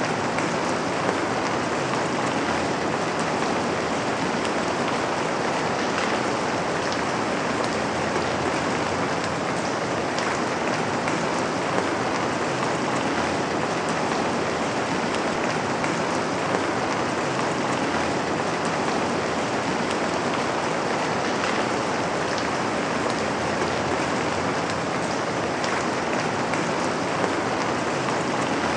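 Steady rain falling on a window pane, an even hiss with a few separate drop taps standing out now and then.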